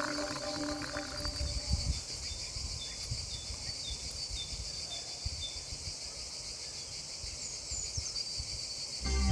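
Insects chirping in a steady pulsing high drone, with a short run of small high chirps partway through. Low rumbling gusts of wind hit the microphone. Background music fades out about two seconds in and comes back loudly at the very end.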